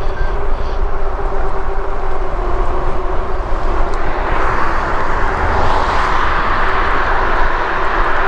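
Wind rushing over the microphone of a riding e-bike, over a steady whine from the Lectric e-bike's geared hub motor. The rushing swells from about halfway through.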